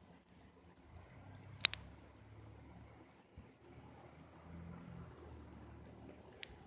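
Cricket chirping steadily, short high chirps at about three to four a second. A single sharp click stands out about a second and a half in.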